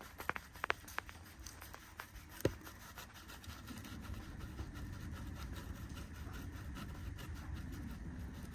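A few sharp clicks and taps as parts of a Spinlock XTS rope clutch are handled during its strip-down, the loudest about two and a half seconds in. After that there is only a steady low rumble.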